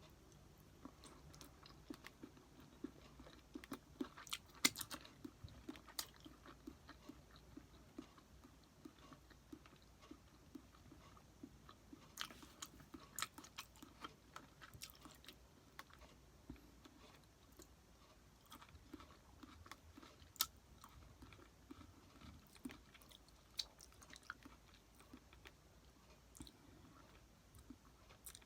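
A person chewing sushi close to the microphone: soft, irregular wet mouth clicks and smacks, with a few sharper clicks standing out, the loudest about five seconds in and again about twenty seconds in.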